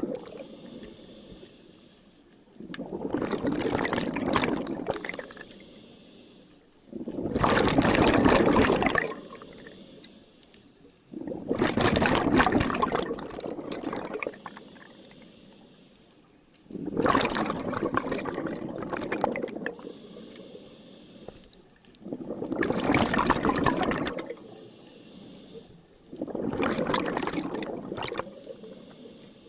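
Scuba diver breathing through a regulator: a bubbling rush of exhaled air about every four to five seconds, six breaths in all, with a fainter hiss of the regulator on each inhalation between them.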